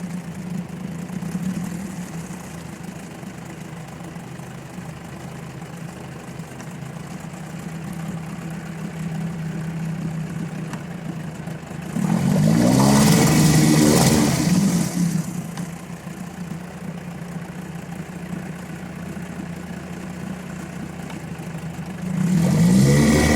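9.9 HP Evinrude two-stroke outboard motor running at idle, revved up sharply about halfway through for around three seconds, then settling back to idle before revving up again near the end.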